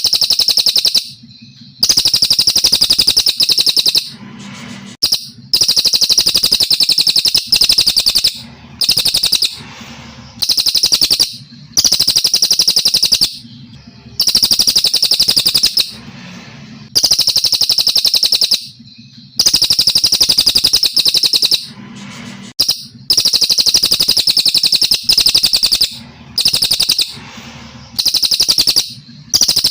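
Brown cililin from Kalimantan singing a loud, high-pitched song: long phrases of rapid notes, each about one and a half to two seconds, repeated after short pauses.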